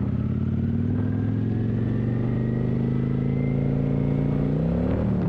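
Kawasaki motorcycle engine running under way, its pitch rising slowly and steadily. Near the end the pitch climbs sharply and then drops back.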